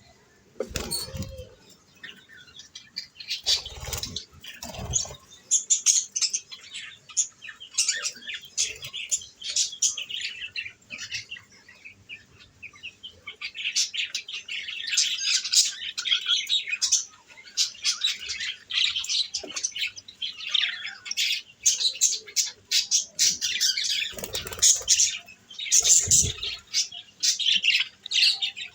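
Pet budgerigars chattering in rapid, high chirps that build up in the second half, with a few dull thumps, once near the start, twice around four to five seconds in and twice near the end.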